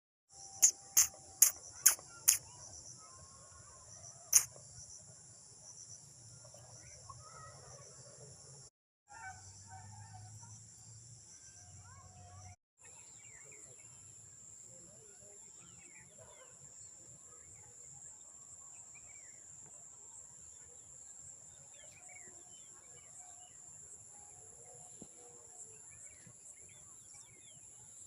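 Steady high-pitched chorus of insects, crickets or cicadas, with faint bird chirps. About a second in there are five sharp clicks in quick succession, the loudest sounds here, and another click a few seconds later. The sound drops out briefly twice.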